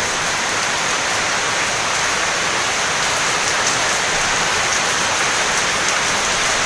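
Heavy rain falling steadily, a dense even hiss of rain on surfaces, driven by strong wind.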